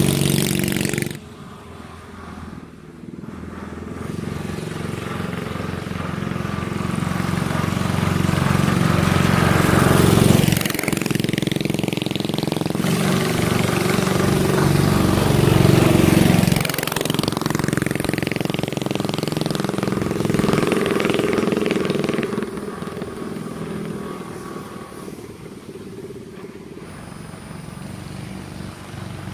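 Small gasoline engine of a motorized porta-potty vehicle running as it is driven around, growing louder and dropping away sharply as it passes about ten and sixteen seconds in, then fading near the end.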